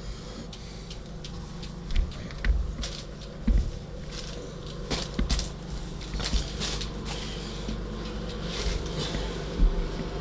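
Scattered knocks, bumps and clicks of things being handled and moved, over a steady low hum.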